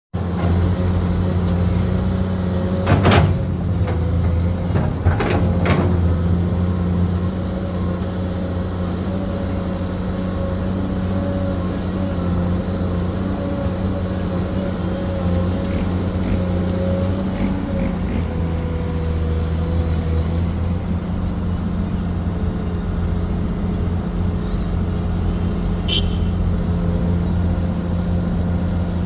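Komatsu PC210 excavator's diesel engine running steadily under digging work, with three sharp metallic knocks a few seconds in.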